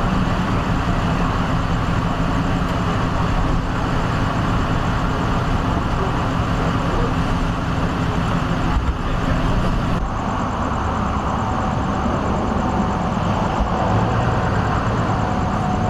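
Vehicle engine idling steadily close by, a continuous low engine hum with road noise; a faint high steady tone joins about two-thirds of the way through.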